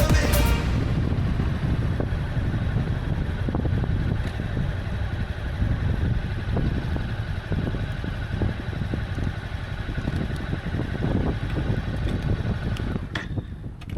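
Honda CB300F motorcycle engine running with wind and road noise while riding, a steady low rumble. Background music cuts off just after the start, and near the end the noise thins out and drops in level.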